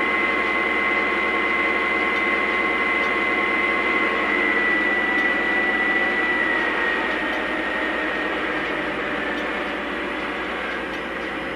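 Sound system of a model Norfolk Southern Dash 9 diesel locomotive playing the diesel engine sound at its top run level, a steady engine note with a high whine. About seven seconds in it eases off and gets quieter as the engine sound winds down toward idle.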